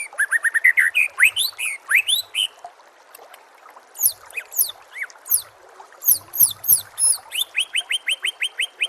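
White-rumped shama (murai batu) song: quick runs of rising whistled chirps, a short pause, then sharp falling high whistles and a fast string of repeated notes near the end.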